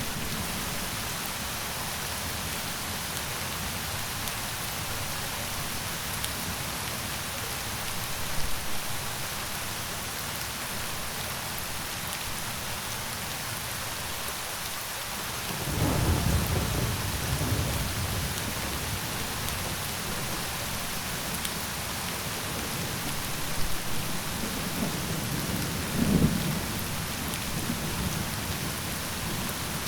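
Steady rain falling, heard as an even hiss, with low rolls of thunder rumbling twice in the second half and a faint one about a third of the way in.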